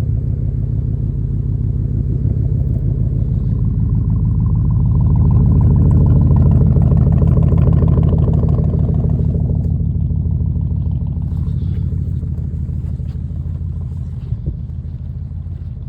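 Chevy Silverado Z71 LTZ engine running shortly after a cold start in the snow, a steady low rumble that grows louder in the middle and then eases off.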